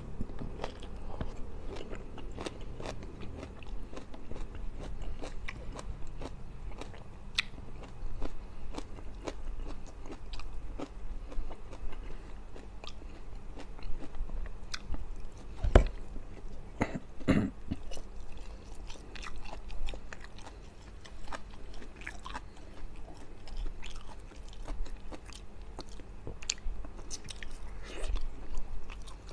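A man chewing mouthfuls of rice and fried fish, with wet mouth sounds and many small crunches and smacks. Two louder knocks come a little past halfway.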